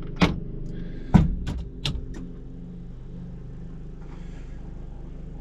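Steady low hum in the cabin of a twin-turbo Camaro, with about six sharp clicks in the first two seconds or so.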